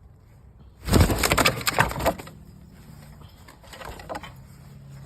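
A sudden burst of wings flapping and scuffling about a second in, lasting about a second, followed by softer rustles: a bird of prey struggling in a pigeon coop as it is handled.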